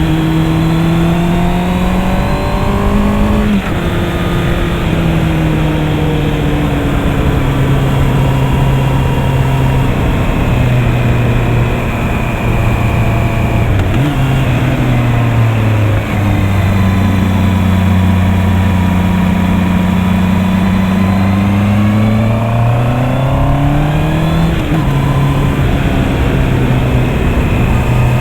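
Honda CB650R 649 cc inline-four engine under way. The revs climb to an upshift a few seconds in, fall slowly over several downshifts, then climb again to another upshift a few seconds before the end.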